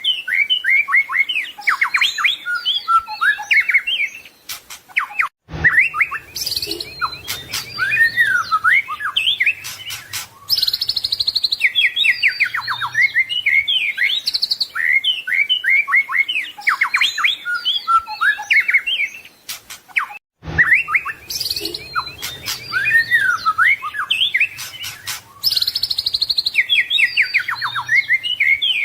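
White-rumped shama singing a loud, fast, varied song of whistled notes, rising and falling sweeps and rapid trills, full of imitated phrases. The song cuts out for a moment about five seconds in and again about twenty seconds in, each time picking up with the same passage repeated.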